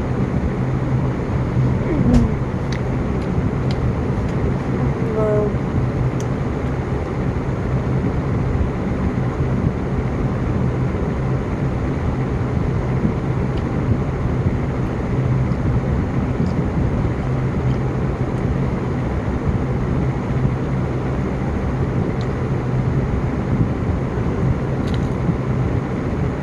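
A steady low hum of a running engine, with no change in pitch or level.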